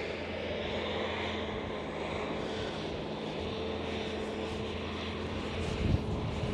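Steady engine drone with a low hum, over outdoor background noise; a lower rumble swells near the end.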